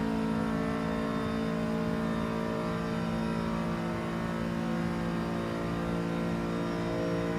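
BMW M5 F90's twin-turbo V8 pulling at high speed, with a steady engine note that holds almost the same pitch throughout.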